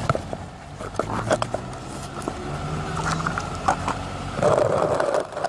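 Rustling, scraping and clicking of a camera being handled and set in place, over the three-cylinder engine idling steadily underneath.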